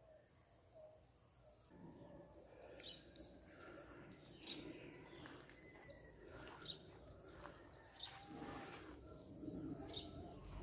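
Faint high bird chirps, short and scattered, over low background noise outdoors.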